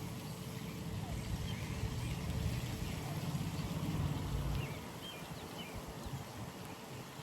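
Outdoor pond ambience: a low rumble that eases off a little past halfway, with faint short high chirps scattered through it over a light hiss.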